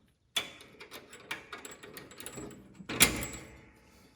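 Handling clatter: a run of small clicks and knocks that starts suddenly after a brief silence, with one louder knock about three seconds in.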